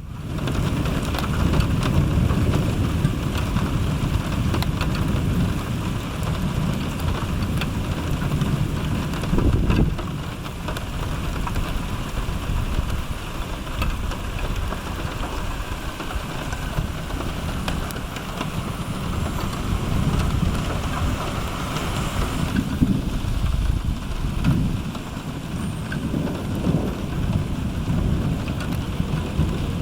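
Thunderstorm: steady heavy rain with thunder rumbling low underneath, swelling louder about ten seconds in.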